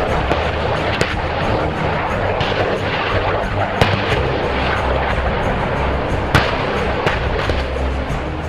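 A handful of sharp bangs a few seconds apart over a loud, dense, continuous rumble, mixed with music.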